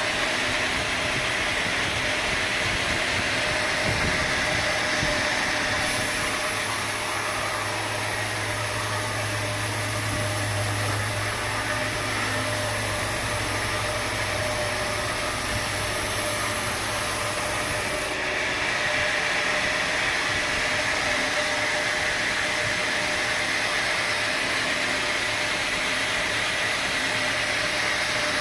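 Sawmill machinery running steadily with a constant whine and hiss; a deeper hum comes in about seven seconds in and drops out about half-way through.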